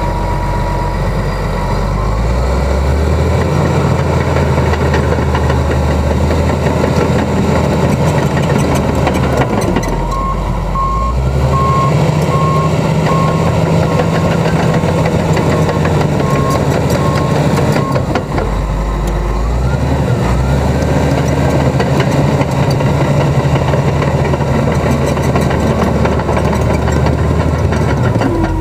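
Komatsu D65EX crawler dozer's diesel engine running, its pitch stepping up and down as the revs change. A reversing alarm beeps repeatedly for several seconds in the middle, the sign that the dozer is backing up.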